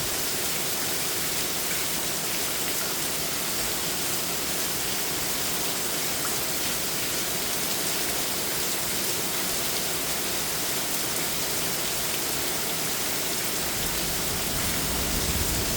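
Heavy rain pouring down in a steady downpour, an even hiss with no let-up. A low rumble comes in near the end.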